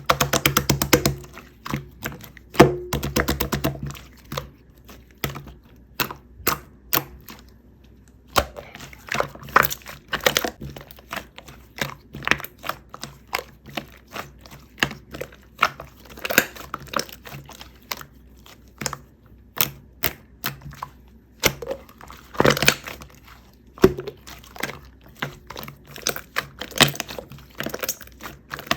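Kitchen utensils handled while making cookies: a quick run of rapid clicks in the first few seconds, then scattered taps and knocks.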